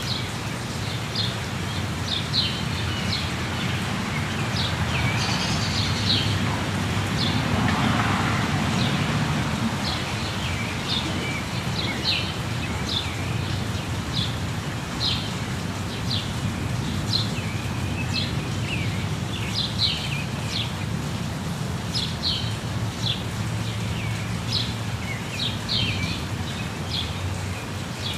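Many short, high bird chirps, one or two a second, over a steady rush of falling water. The rush swells briefly about eight seconds in.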